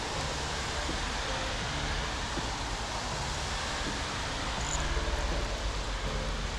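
Steady rushing of stream water: an even, unbroken hiss with a low rumble beneath.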